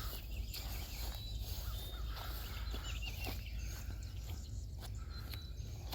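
Outdoor ambience: a few faint bird chirps over a steady low rumble, with occasional soft knocks of footsteps.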